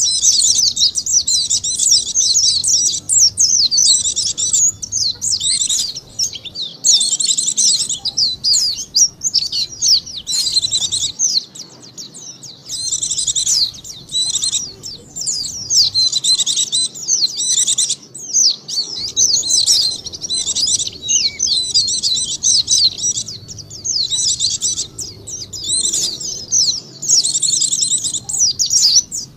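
White-eye (pleci) song: rapid, high twittering phrases of a second or two each, coming one after another with brief gaps.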